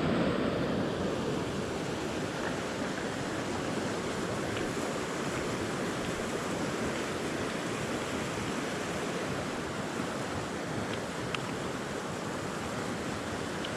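Mountain creek in spring snowmelt flow, its water rushing steadily, with a couple of faint clicks in the second half.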